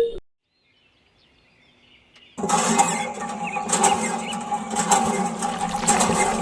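Music cuts off, and after a near-silent pause water suddenly starts gushing and splashing about two and a half seconds in, steady and loud, as a miniature pump delivers water into the diorama's trough.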